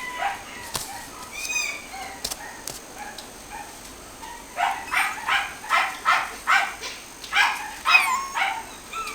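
A small pet animal calling: a few soft calls early on, then a quick run of about ten short, high calls, two or three a second, from about halfway through until near the end.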